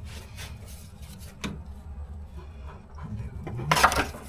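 A few light knocks, then a short, loud metallic scrape near the end: the fuel tank rubbing against a bent metal strip that keeps it from seating.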